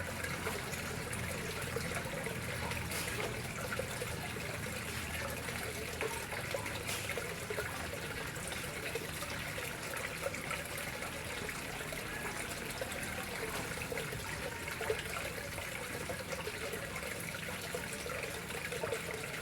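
Water flowing steadily into a koi pond.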